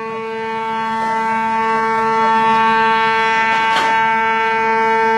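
A ship's horn sounding one long, steady blast that grows slightly louder, with a short crackle about two-thirds of the way through.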